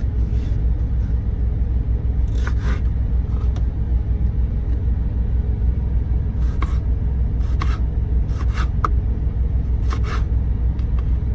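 Steady low rumble of a truck heard from inside its cab, with a dozen or so short, sharp clicks and knocks scattered over it.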